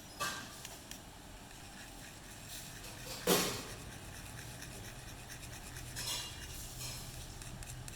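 Small hard objects being handled on a work surface: a few light clinks and knocks, the loudest about three seconds in, over a faint steady hum.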